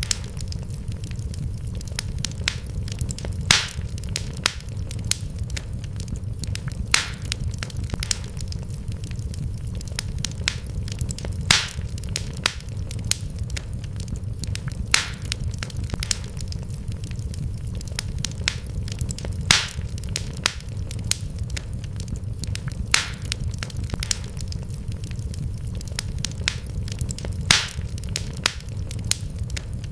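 Wood fire crackling in a fireplace: irregular sharp pops and snaps, a few much louder than the rest, over a steady low rumble of the burning fire.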